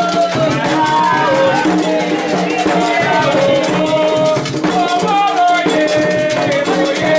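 Group singing a Candomblé chant, accompanied by a shaken rattle and drums.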